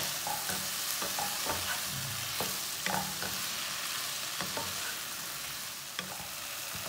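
Okra, onions, tomatoes and green chillies sizzling in oil in a non-stick wok, with a steady hiss, while a wooden spatula stirs them, scraping and knocking against the pan at irregular moments. The sharpest knock comes right at the start.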